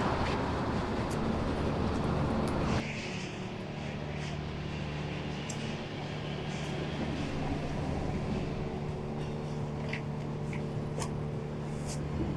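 Subway station noise: a loud rushing rumble from a train, cut off abruptly about three seconds in, leaving a steady low hum with a few faint clicks.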